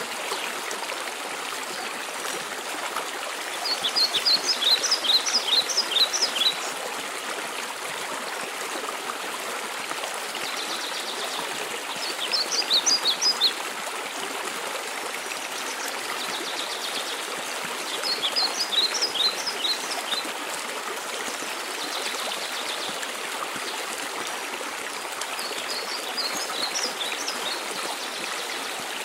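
Steady rush of a waterfall, with a songbird singing four short phrases of quick, high notes, one every six to seven seconds.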